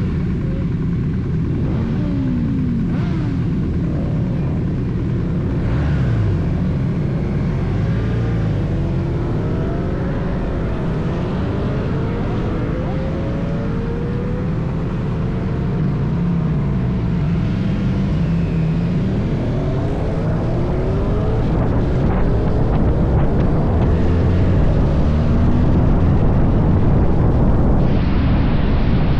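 Motorcycle engine running on the road, its pitch rising and falling again and again with throttle and gear changes, over a steady rush of wind.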